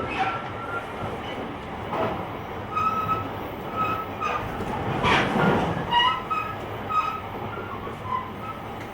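Running noise of a JR Kyushu 885 series electric train (Hitachi-equipped motor car) heard from the deck: a steady rumble of wheels and body, with short high squeals about once a second and a louder rushing surge about five seconds in.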